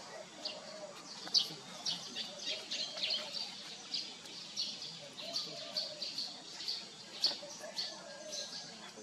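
Small birds chirping: a steady run of short, high chirps, two or three a second.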